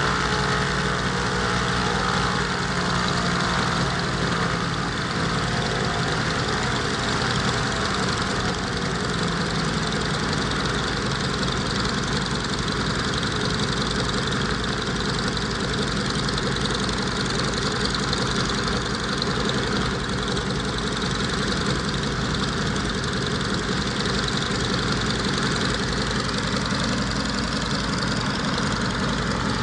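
Alvis Leonides radial piston engine of a Scottish Aviation Twin Pioneer running steadily during a ground engine run.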